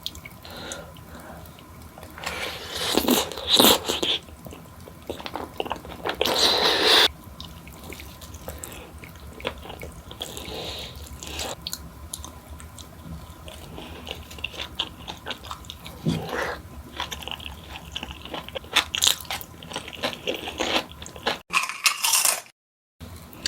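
Close-miked bites into crunchy fried food and chewing, with the loudest crunches a few seconds in and softer chewing and mouth clicks after; the sound cuts out briefly near the end.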